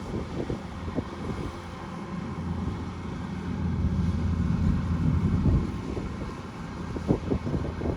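Kubota DC-105X combine harvester's diesel engine running, a steady low rumble that swells about halfway through, with wind on the microphone and a few sharp crackles near the end.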